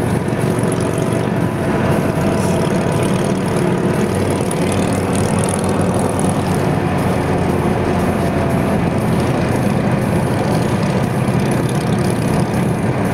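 Harley-Davidson V-twin motorcycle engines rumbling steadily at low revs, with no revving.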